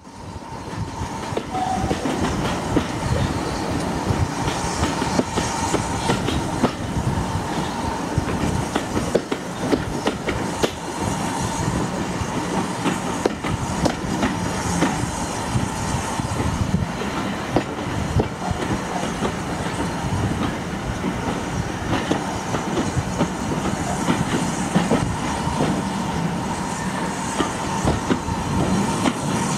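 Steam-hauled heritage train coaches running on the rails, heard from a carriage window: a steady rumble with a rapid, irregular clicking and knocking of wheels over the track. It fades in at the start.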